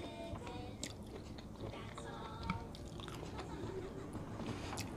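Quiet, close-up chewing and biting of food, with a couple of sharp clicks, one about a second in and one near the end.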